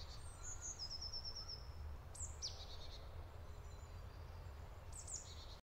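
Faint forest birdsong: a quick run of about seven high notes near the start, a couple of high downward-sweeping calls around two seconds in, and another short call near the end, over a low steady rumble. The sound cuts off abruptly just before the end.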